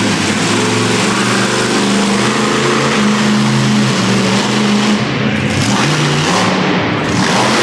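Monster truck engine revving loudly, its pitch rising and falling in steps as the throttle is worked.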